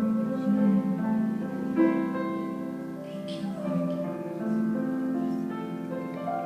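Slow instrumental keyboard music: held chords that change every second or so.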